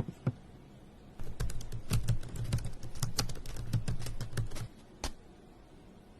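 A quick run of clicking taps, many to the second, lasting about three and a half seconds, with a few single clicks before and after.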